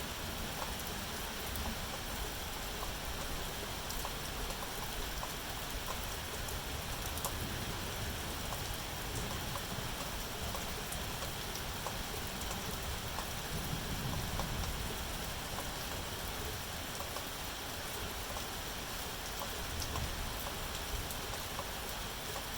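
Steady rain falling, an even hiss with scattered drop ticks and a brief low rumble about two-thirds of the way in.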